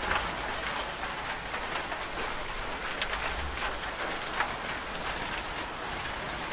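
Steady rain falling, an even hiss with individual close drops ticking sharply now and then.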